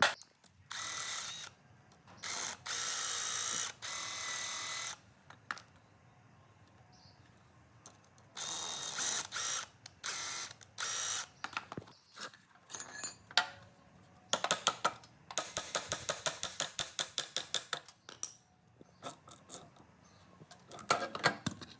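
Tool work on metal engine parts: several short bursts of a whirring power tool, then a few seconds of rapid, even ratchet-like clicking.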